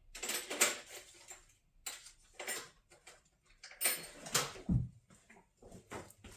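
Hand tools clinking and rattling as a tool bag is rummaged through, in short irregular clatters, with a dull thump about four and a half seconds in.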